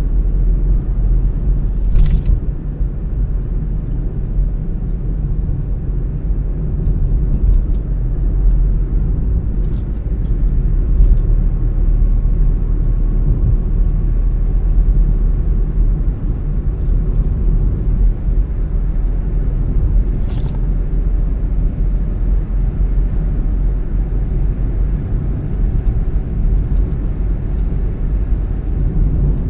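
Car driving at a steady speed: a constant low rumble of road and engine noise, broken by a few short sharp ticks, the clearest about two seconds in and again near twenty seconds.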